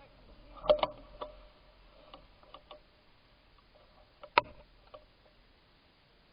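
Scattered light clicks and ticks at uneven intervals, with a sharp double click about a second in and the loudest single click about four and a half seconds in.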